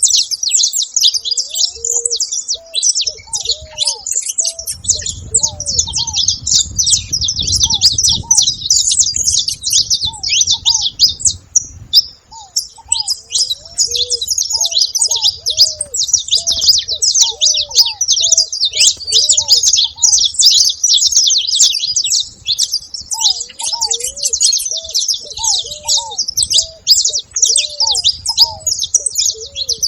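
A group of saffron finches chirping and chattering together without a break, many high, quick notes overlapping. A lower, softer call repeats in short series underneath.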